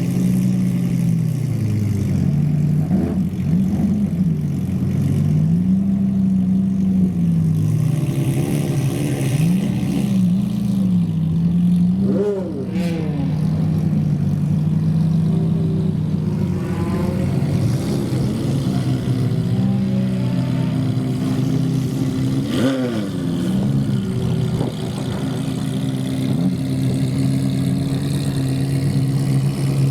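Supercar engine and exhaust revving and accelerating, the note rising and falling again and again. There are two sharp quick rev spikes, about 12 seconds and 23 seconds in, and the engine settles into a steadier note near the end.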